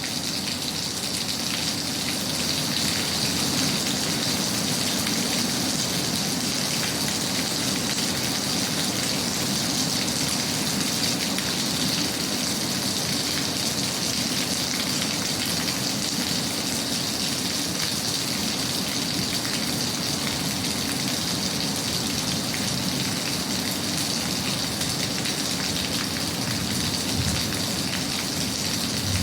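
Steady rain: an even hiss with a dense patter of drops, unchanging throughout.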